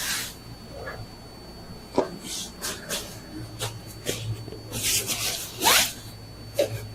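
Rubbing and rustling handling noises with a few sharp knocks. A faint low hum comes in about halfway through.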